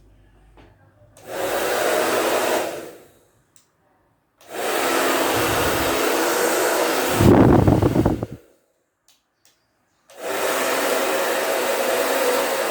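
Hair dryer with a newly replaced fan switched on for a test run, running steadily in three stretches: about two seconds, then about four seconds with a louder low rumble near its end, then again from about ten seconds in.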